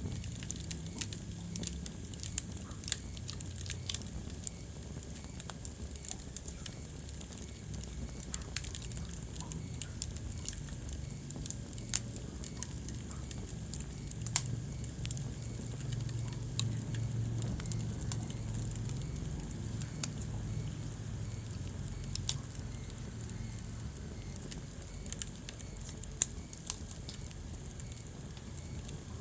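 Wood fire in a fireplace crackling, with irregular sharp pops and snaps scattered over a steady low background.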